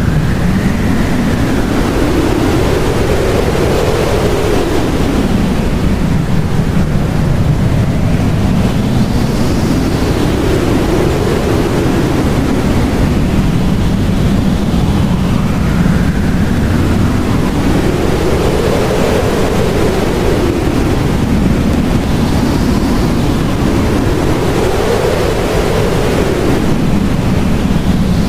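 Blizzard wind blowing steadily, with a howl that rises and falls in pitch every few seconds over a constant rushing noise.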